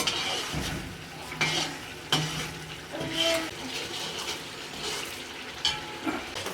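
A metal spoon stirring and scraping in a cooking pot while food sizzles in hot oil, with several sharp clanks against the pot.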